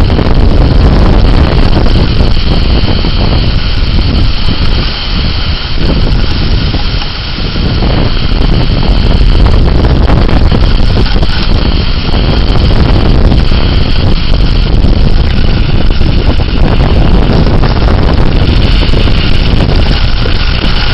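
Severe thunderstorm wind gusting hard, buffeting the microphone with loud, continuous low rumbling noise; it eases briefly about five and seven seconds in, then picks up again.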